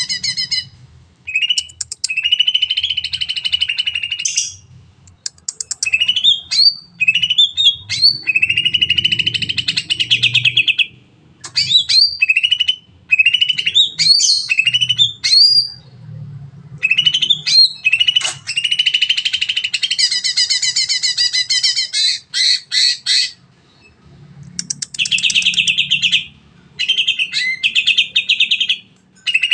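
Green leafbird (cucak ijo) singing long rapid trills, mixed with quick sweeping whistles and short sharp notes, in bursts a few seconds long separated by brief pauses.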